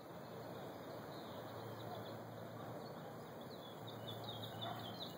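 Quiet outdoor ambience: a steady low hiss with faint, short bird chirps, a small cluster of them about four to five seconds in.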